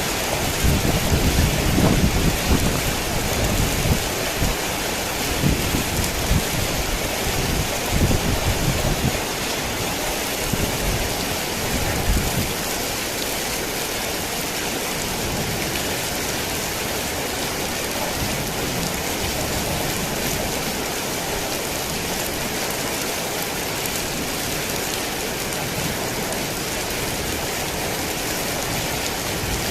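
Heavy rain falling steadily, with low rolling thunder rumbling through roughly the first twelve seconds before it dies away and leaves only the rain.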